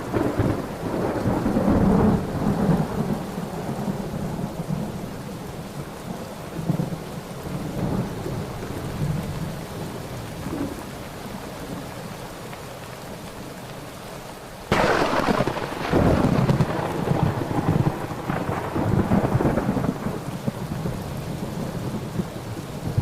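Thunderstorm with steady rain: a roll of thunder dies away over the first few seconds. About two-thirds of the way through, a sudden sharp thunderclap breaks in and rolls on in rumbles for several seconds before easing back to rain.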